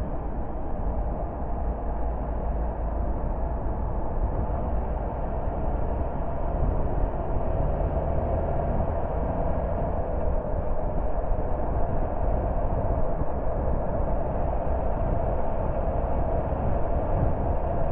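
A car driving along the road: steady tyre and engine noise, growing slightly louder about a third of the way in.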